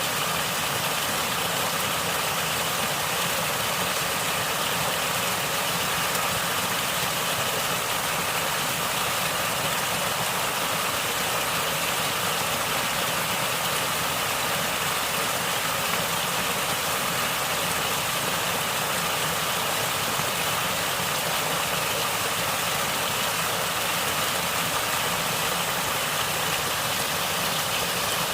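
Natural stream water flowing and gurgling: a steady, even rush of water with no breaks.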